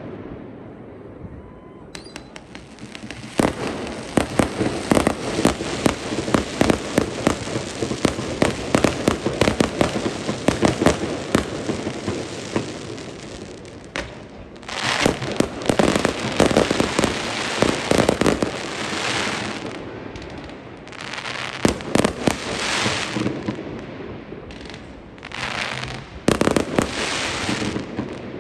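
Fireworks display: a dense run of rapid bangs with crackling for about ten seconds, then several waves of crackling bursts separated by short lulls.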